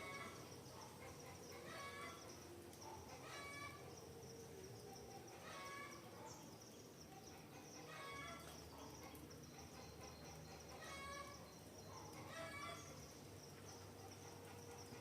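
Forest birds calling: a short call repeated roughly every two seconds, over a steady high insect drone.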